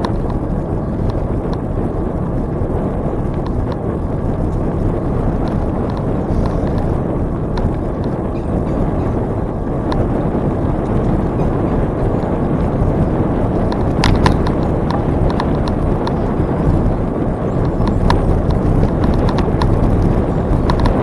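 Bicycle riding along a trail: a steady rush of wind on the microphone and tyre noise, with scattered rattling clicks from the bike.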